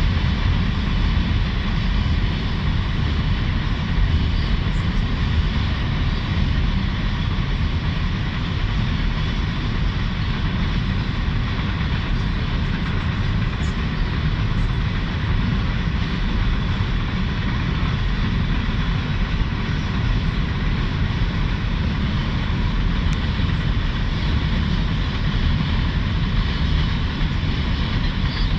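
Freight train cars rolling past on the rails, a steady loud rumble with no pauses.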